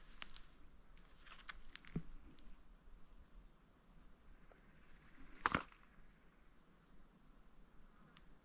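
Faint, steady high-pitched chirring of insects such as crickets, with a few scattered footstep scuffs on sandy ground; the loudest comes about five and a half seconds in.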